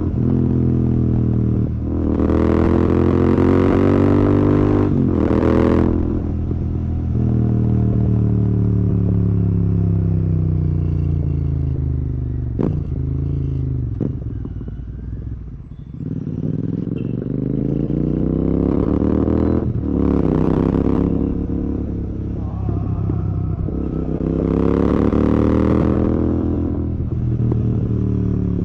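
Royal Enfield Continental GT 650's parallel-twin engine through a Red Rooster aftermarket exhaust, riding in traffic: the engine note climbs under throttle and falls away off throttle several times, dropping lowest about halfway through before building again twice.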